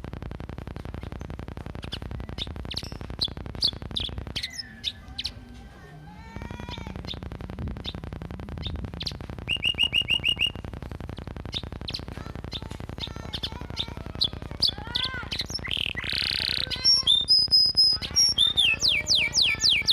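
Domestic canary singing a long, varied song of quick chirps, slurred whistles and trills, trained with house-sparrow-like phrases. Near the end it breaks into a loud, fast rattling trill of rapidly repeated notes.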